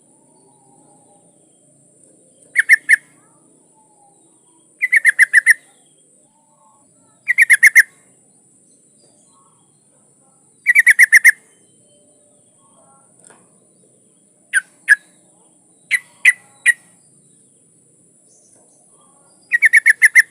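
Yellow-vented bulbul (trucukan) calling: short bursts of quick bubbly chattering notes every two to three seconds, with a run of single sharp notes near the middle, over a steady high hiss.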